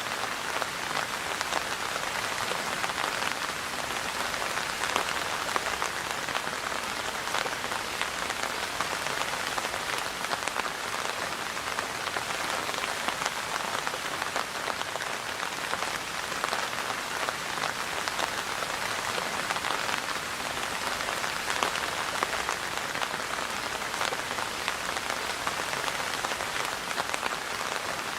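Steady rain falling, a dense even hiss of many small drops pattering on a surface, with no change in strength.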